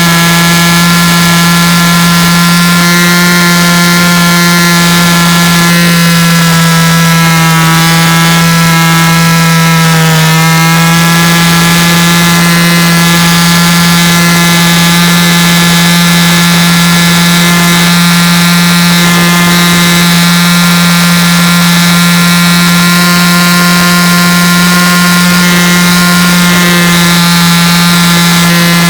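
A loud, steady machine hum: one constant pitched tone with many overtones over a hiss, sagging slightly in pitch about ten seconds in, then steady again.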